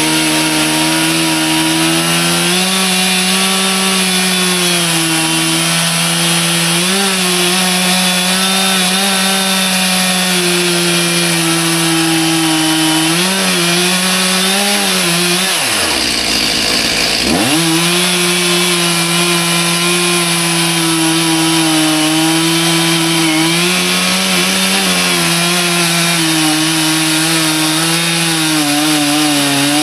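Stihl MS 361 two-stroke chainsaw running at high revs, cutting into an ash log. About halfway through, the engine pitch dips sharply for a second or so, then climbs back to its cutting speed.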